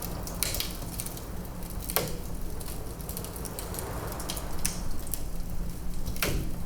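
Wood fire crackling in a fireplace, with scattered small snaps and a few sharp pops, the loudest near the end, over a steady low rumble of wind.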